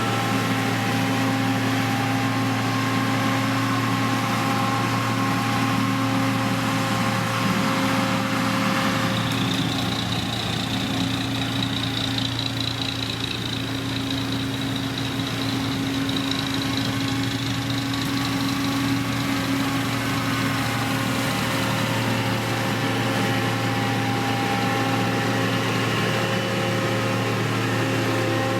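Heavy road-construction machine's diesel engine running steadily. A thin high whine comes in about nine seconds in and fades about ten seconds later.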